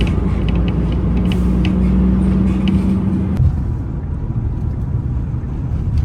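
Motor vehicle running and moving, a loud steady low rumble with an engine drone that drops away a little past halfway while the rumble carries on.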